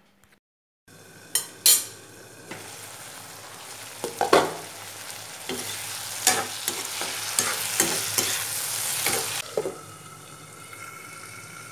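Mustard-green stems and tomato sizzling in oil in a kadai, stirred with a metal spatula that clicks and scrapes against the pan. The sizzle is loudest while stirring. Near the end it falls to a quieter, steady hiss as the glass lid goes back on for low-heat simmering.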